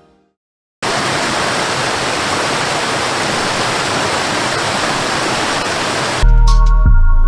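After a brief silence, a steady, even rushing noise like falling water runs for about five seconds, then cuts off as music with a deep bass comes in near the end.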